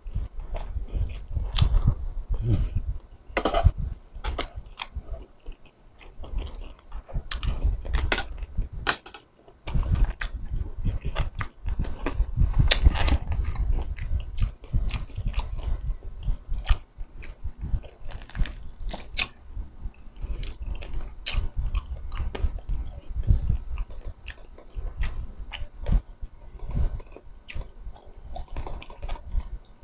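A person chewing and crunching crispy chicharon bulaklak (deep-fried pork mesentery) and sisig, with crisp crackling bites again and again between the chewing.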